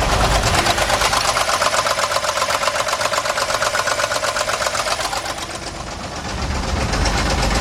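The 3.7-litre V6 of a 2003 Jeep Liberty Sport running rough, with a loud, rapid, even knocking clatter that the mechanic finds horrible. It is the loud engine noise the owner complained of, in an engine also said to be misfiring. The clatter eases somewhat about five seconds in.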